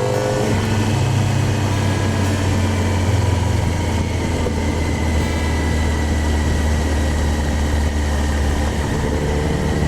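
Kawasaki Z1000's inline-four engine running at low, steady revs, with a noisy rush over it. The engine note eases down just after the start and starts rising again near the end.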